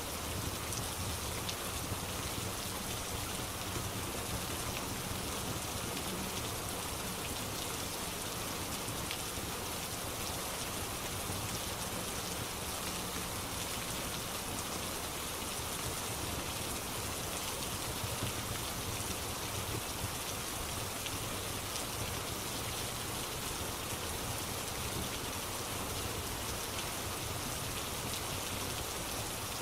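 Steady rain pattering on a surface, with fine drop sounds and no change in level.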